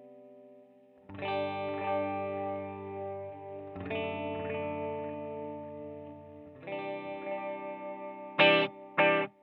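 SX electric guitar played through a Saphue digital delay pedal. Sustained chords are struck about a second in, near four seconds and near seven seconds. Near the end comes a short, clipped chord whose delay echoes repeat about every half second, each one fainter.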